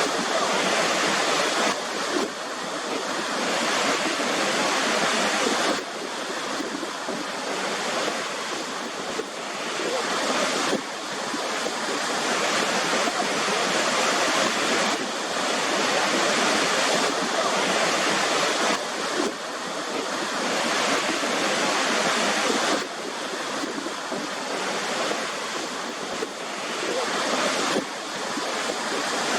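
Waterfall rushing: a steady, dense roar of falling water, with abrupt small shifts in level every few seconds.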